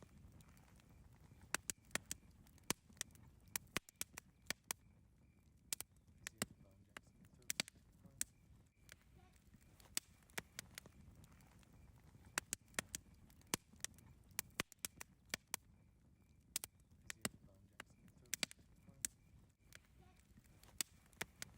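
Wood campfire crackling: irregular sharp pops and snaps, several a second, over a low soft rumble of the burning fire.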